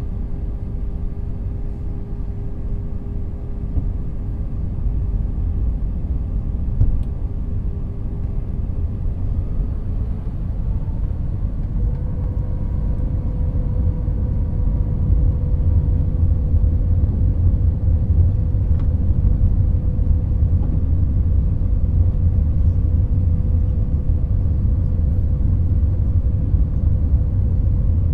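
Jet airliner heard from inside the cabin: a steady low rumble under an engine hum that steps up in pitch about twelve seconds in, the rumble then growing louder.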